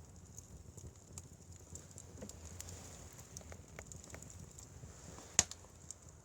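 Wood fire burning with faint, irregular crackles and small pops, and one sharp, louder snap about five seconds in.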